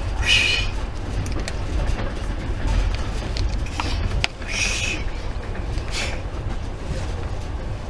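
Steady low rumble of a moving passenger train heard from inside the carriage. Two short, brighter noises stand out, one about half a second in and one about halfway, with a sharp click just before the second.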